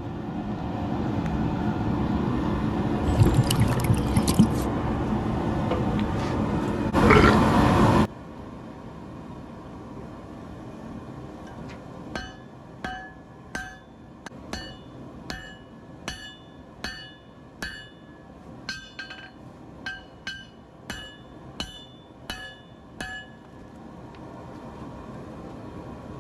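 Loud steady rushing noise that stops abruptly about eight seconds in. After a short pause comes a hammer striking hot steel on an anvil: about sixteen evenly spaced blows, roughly one and a half a second, each with a bright ring.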